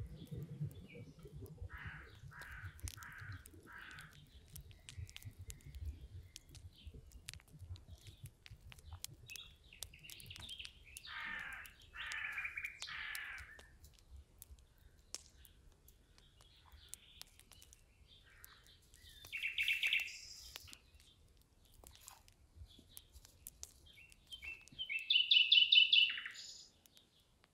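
Birds chirping in short bursts of calls, the loudest a fast run of high repeated notes near the end, over faint scattered clicks.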